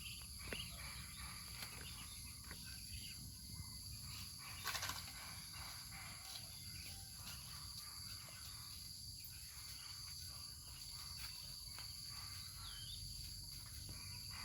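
Faint outdoor ambience: a steady high-pitched insect chorus, with scattered small clicks and a brief rustle about five seconds in.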